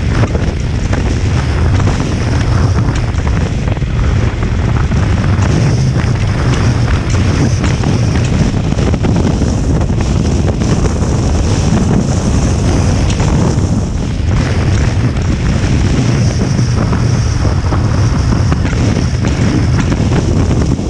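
Strong wind buffeting the microphone during a ride on a 2023 Honda XL750 Transalp motorcycle, a loud, steady rush over the bike's engine and road noise.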